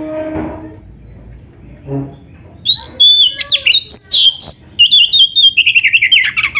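Oriental magpie-robin (kacer) singing a loud, varied song of rapid whistles and quick trilled phrases, beginning a little over a third of the way in after a lower, harsher sound at the start.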